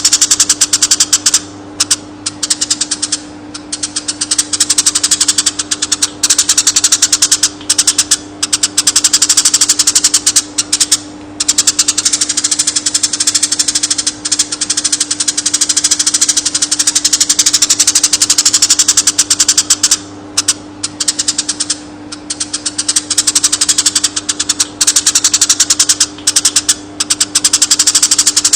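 Eurasian tree sparrow singing a long rolled chatter: very rapid strings of high chirps run on for seconds at a time, broken by brief pauses, over a steady low hum.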